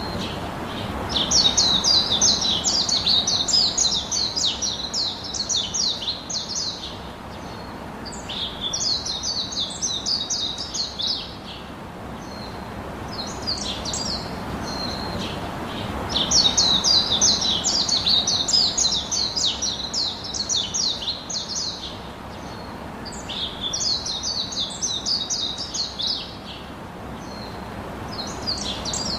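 A songbird singing in four long phrases, each a rapid run of high, down-slurred chirps lasting a few seconds, with short pauses between, over a steady low background rush.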